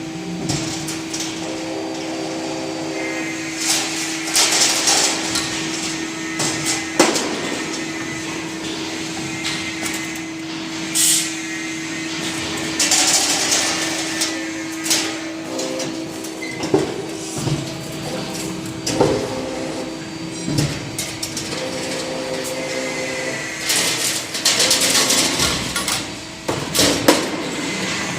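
Automatic clothes-hanger wire forming and double-sided welding machine running: a steady hum, with clusters of clanks and hissing bursts that recur about every ten seconds as it works through each cycle, plus scattered single knocks.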